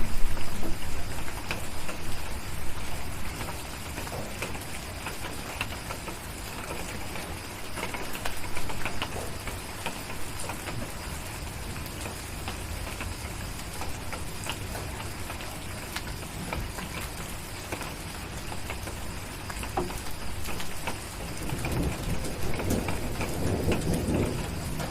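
Steady rain with scattered crackles of a wood fire in a fireplace. A low rumble of distant thunder dies away at the start, and another swells near the end.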